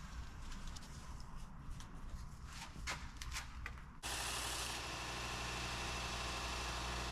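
A few light clicks and knocks of handling over a low hum. About four seconds in, the steady noise of a running electric shop machine cuts in abruptly at full level.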